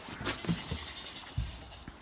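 Goats calling, with a few sharp knocks and a dull thump about halfway through.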